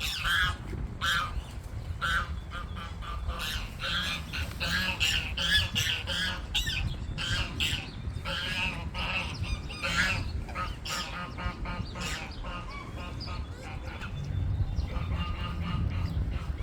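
Water birds calling over and over, many short calls overlapping, growing sparser in the last few seconds.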